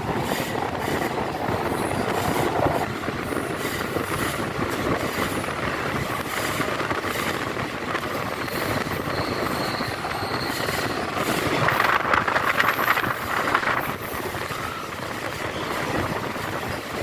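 Kirandul train running along the track, its wheels rattling steadily on the rails. From about twelve seconds in, a louder, brighter stretch that sounds like the wheels squealing lasts a couple of seconds.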